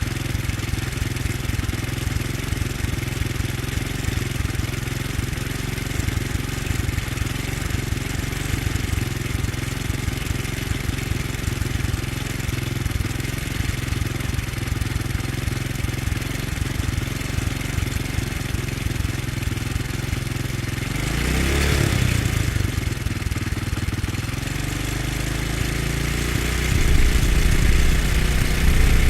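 Motorcycle engine idling steadily. It revs briefly about three quarters of the way through, then its note rises and grows louder near the end.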